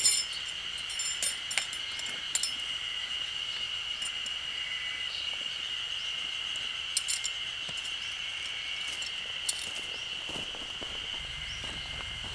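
A steady, high insect drone in the forest, with a few scattered knocks and clicks.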